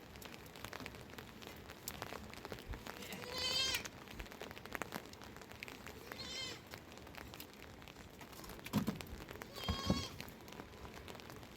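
Sheep bleating three times, each a short quavering call, with a couple of dull thumps near the end.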